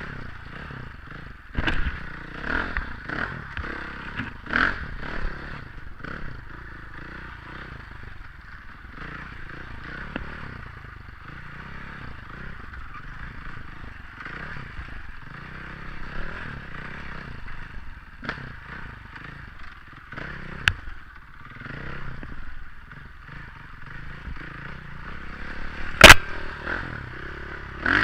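Dirt bike being ridden along a rough trail, heard from an on-bike or helmet camera. The engine runs under a clatter of scrapes and knocks, with one sharp, loud knock near the end.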